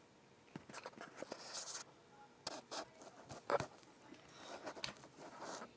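Irregular scratching and rustling: a run of short scrapes and clicks, the loudest about three and a half seconds in.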